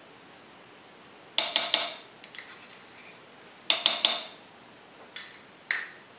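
Metal spoon clinking against a cooking pan in short bursts of sharp taps, two quick clusters of about three taps, then single clinks.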